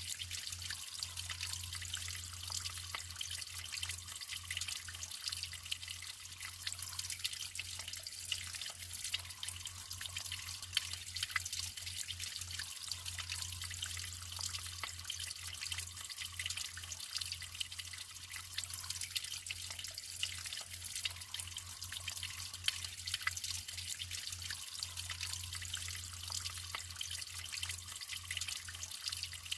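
Natural water flowing and trickling, with a steady splashing hiss and many small drips and splashes.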